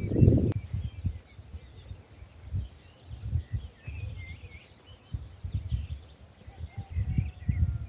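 Small birds chirping in the background, with irregular low rumbles and thumps throughout, loudest in the first half second.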